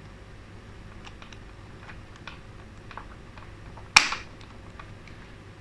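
Plastic case of a Toyota smart key fob being handled and pressed shut, with faint small clicks and then one sharp snap about four seconds in as the cover clicks into place.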